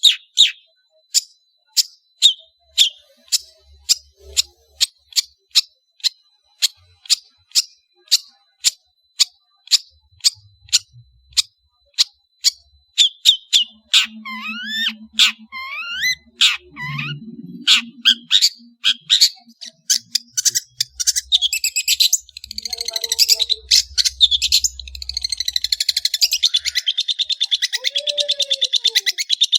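Long-tailed shrike (cendet) singing. It gives a long run of sharp, high chips about two to three a second, then a few looping whistled notes about halfway through, then a fast, dense chattering trill near the end.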